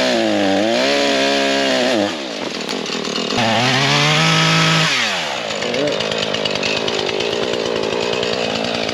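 Gas chainsaw cutting wood. It revs up hard twice in the first five seconds, dropping back between, then runs on at a lower, steadier speed.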